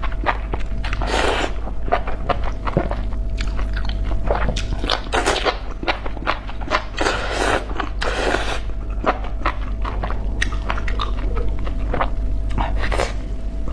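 Chewing of spicy enoki mushrooms: many quick, wet clicks and crunches of biting and mastication, over a steady low hum.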